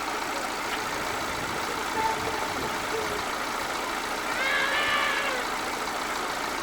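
Car engine idling steadily. About four and a half seconds in, a brief high call that rises and falls, like a cat's meow, sounds over it.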